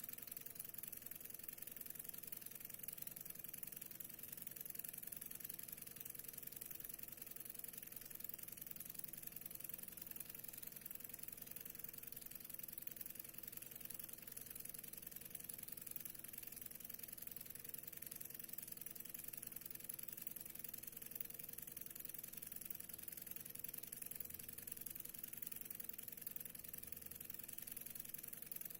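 Stirling engine running steadily: a faint, even mechanical running sound that does not change.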